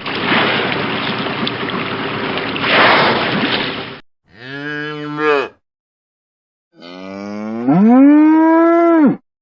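A cow mooing twice: a short low moo, then a longer one that rises in pitch and holds. Before them, about four seconds of a loud, rough, noisy sound.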